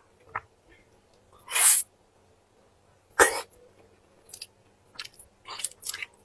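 Close-miked eating mouth sounds: two short, sharp hissing slurps about a second and a half apart, then a run of small wet clicks and smacks from chewing.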